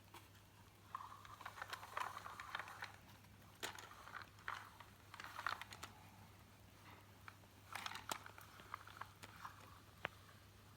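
Small toy cars and a toy truck being handled, giving light plastic and metal clicks and rattles in scattered bursts, with one sharp click near the end.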